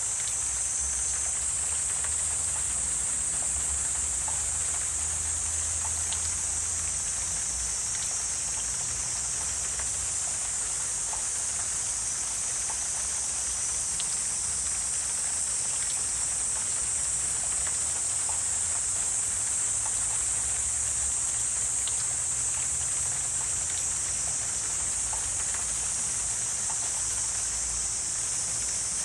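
A steady, high-pitched chorus of insects in a wetland, with scattered faint clicks or drips and a low rumble that swells and fades underneath.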